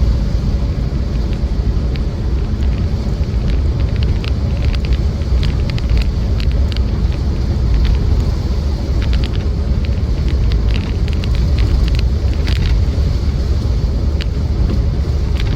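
Interior sound of a Land Rover Defender 90's 2.4 TDCi four-cylinder diesel pulling uphill: a steady low engine and road drone. Scattered light rattles and knocks come from the body and fittings over a bumpy road, most of them in the middle of the stretch.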